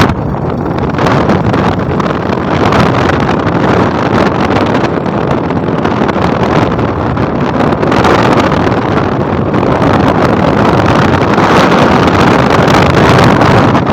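Loud, steady rushing noise with no clear pitch, running unbroken.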